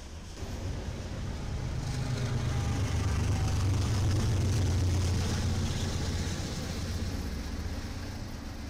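Diesel freight locomotives passing close by: a deep engine rumble with rail and wheel noise that swells to a peak about halfway through, then eases off.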